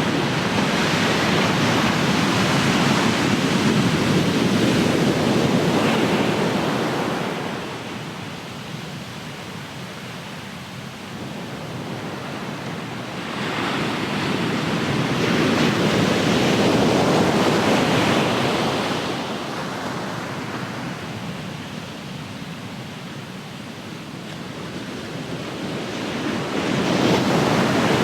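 Ocean surf: waves breaking and washing in, the rush swelling and ebbing in slow surges about every ten seconds, three times.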